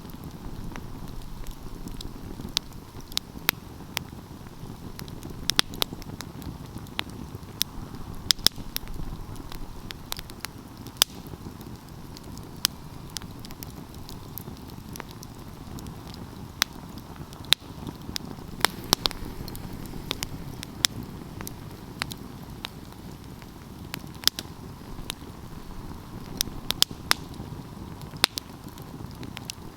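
Wood fire burning, with a steady low rush of flames and frequent sharp, irregular crackles and pops from the burning logs.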